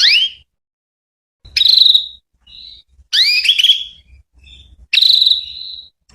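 Female canary calling: short, sharp rising chirps alternating with longer buzzy trills, one about a second and a half in and another about five seconds in, with fainter short notes in between.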